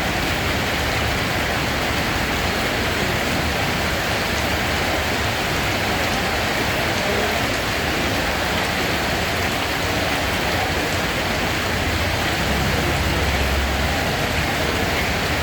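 Steady rain falling on a surface, a constant even hiss with a low rumble underneath.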